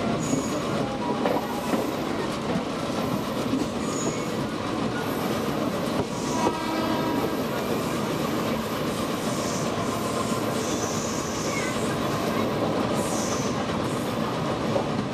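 Trains rolling through a station: a steady rumble and clatter of steel wheels on the track, with a few short, high wheel squeals.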